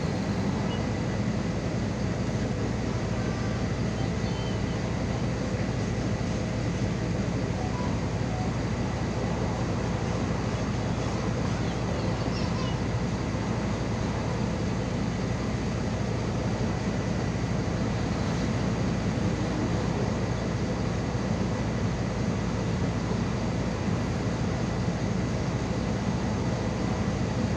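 MAZ 216.066 city bus under way: a steady low engine drone with road and running noise, and a faint thin steady whine above it.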